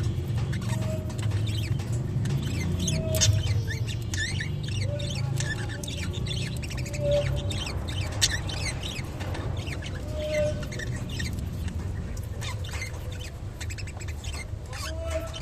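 A group of budgerigars chattering in quick short chirps and warbles, with scattered sharp clicks as they peck at water spinach leaves, over a steady low rumble.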